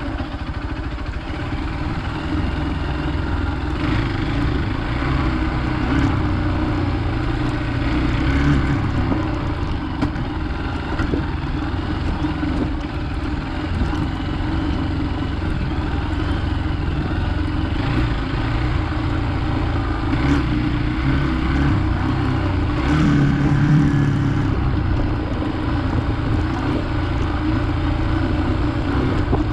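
Hero Xpulse 200 motorcycle's single-cylinder engine running steadily while riding off-road, its note rising and falling a little with the throttle.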